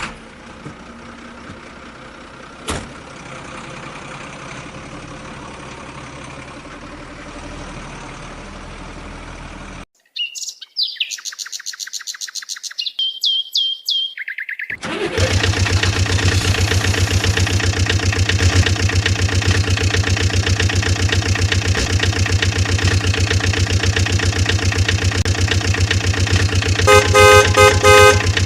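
Electronic sound effects from a toy vehicle: a steady hiss with one click, then a few seconds of rapid bird-like chirps, then a loud, even engine buzz. A quick series of horn beeps comes near the end.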